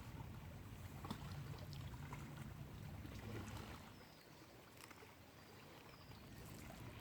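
Faint waterside ambience: a low rumble with light water sounds and scattered small clicks, and two brief high chirps in the second half.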